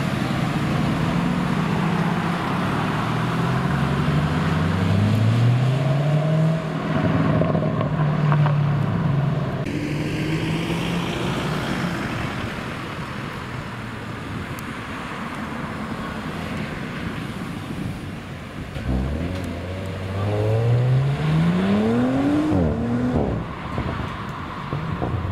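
Sports cars accelerating away one after another: first a Mercedes-AMG GT roadster's twin-turbo V8 revving up through several gear changes, then, about 19 seconds in, an Audi Sportback's engine climbing steeply in pitch under hard acceleration before a gear change drops the note.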